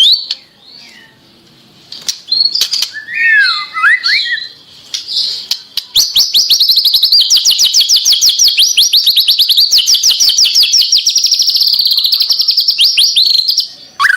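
White-rumped shama (murai batu) singing: a few slurred whistled phrases, then a long, fast, even trill of repeated high notes, about ten a second, lasting over seven seconds.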